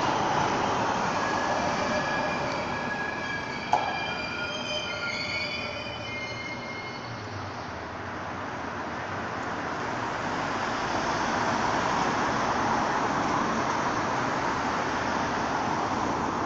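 R143 subway train's wheels squealing on the track as it arrives, several high tones at once, with a sharp click about four seconds in. The squeal dies away after about six seconds, and a steady rumble of train noise swells up again over the second half.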